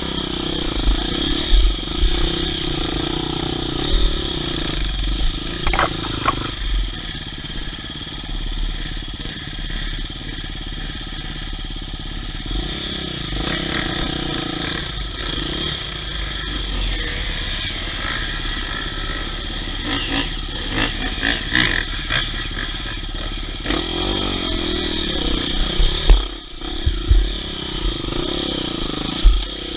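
Off-road dirt bike engine running and changing revs while riding a trail, with scattered knocks and clatter.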